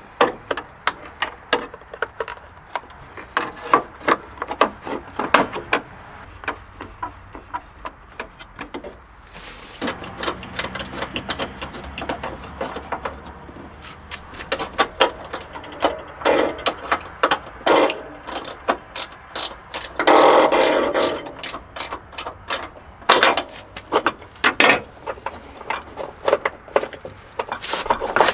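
Hand work on car parts: a busy run of irregular clicks, knocks and light scrapes, with a louder scraping rush about twenty seconds in.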